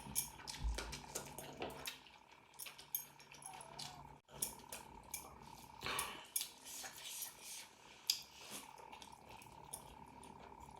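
Close-miked eating sounds: wet chewing and lip smacking, with irregular small clicks and squelches throughout.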